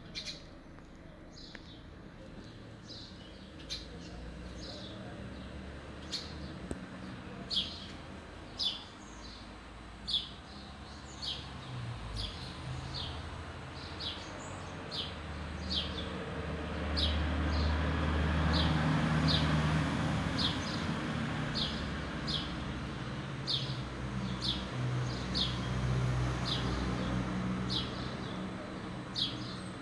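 A small bird chirping over and over, short high chirps about once or twice a second, over a low background rumble that swells in the middle.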